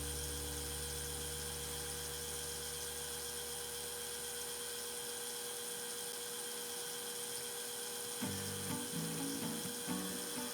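A steady machine hum that fades out about four seconds in. Near the end, background music with a stepping bass line comes in.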